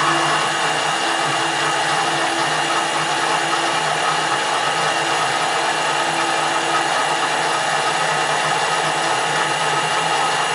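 Metal lathe running steadily during screw cutting, a constant machine hum and whine with no break.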